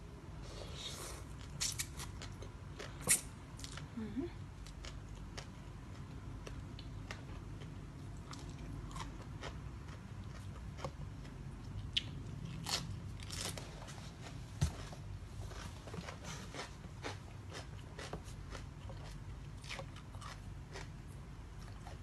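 A person eating close to the microphone: crunchy bites and chewing, sharp crunches and clicks at irregular intervals, the loudest about three seconds in and again around twelve to fifteen seconds, over a steady low hum.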